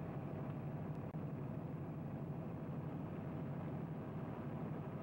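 A car engine running with a steady low drone under load as a 1955 Chevrolet pulls a long line of other cars from a dead start, with a brief dropout in the old film soundtrack about a second in.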